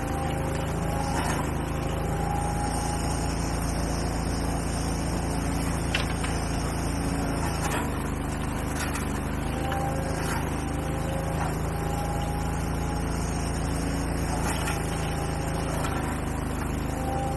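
An engine running steadily with a low hum, with scattered light clicks and short squeaks over it.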